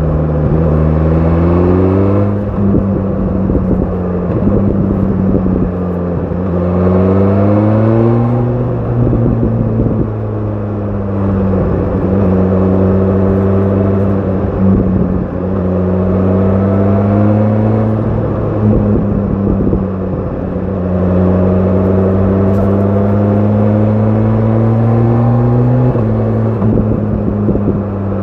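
2025 BMW S1000 RR's inline-four engine through an Akrapovic exhaust, under way. The revs climb sharply twice in the first nine seconds, then hold with long slow rises, easing off briefly a few times.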